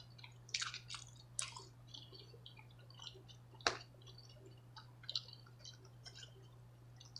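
Close-miked chewing of soft food, a loaded baked potato with steak tips: scattered wet mouth smacks and clicks, with one sharper click about halfway through.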